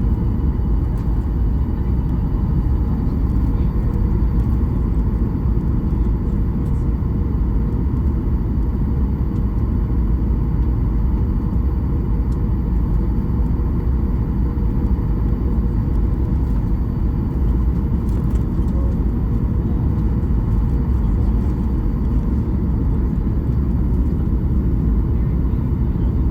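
Steady cabin rumble inside a Boeing 737 MAX-8 airliner with its engines running, heavy in the low end with a faint steady hum above it, unchanging throughout.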